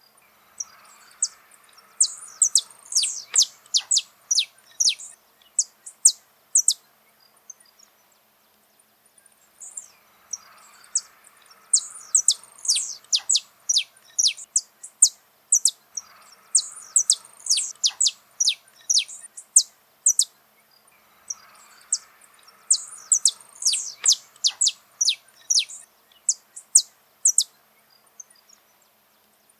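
Saffron finch (canário-da-terra) singing: fast runs of sharp, high, downward-slurred notes in bouts of several seconds, separated by short pauses.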